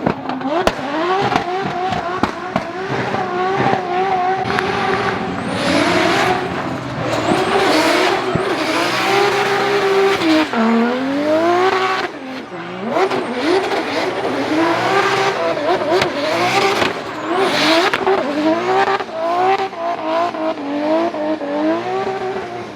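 Rally car engine revving hard, its pitch climbing and dropping again and again as the throttle is worked on a loose forest stage, with bursts of harsher noise from the tyres and surface.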